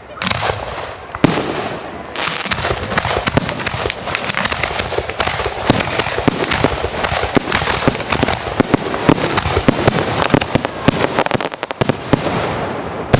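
Fireworks display: a dense, continuous barrage of rapid crackling and popping with repeated sharp bangs.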